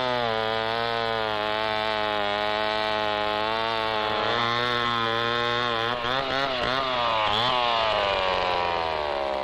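Chainsaw running under load while cutting into a large Brazil nut tree. Its engine note dips and recovers a few times and sags near the end.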